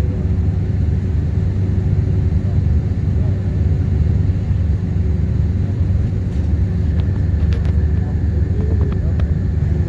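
Steady low rumble of a vehicle driving, road and engine noise with a faint steady hum over it. A few light clicks come near the end.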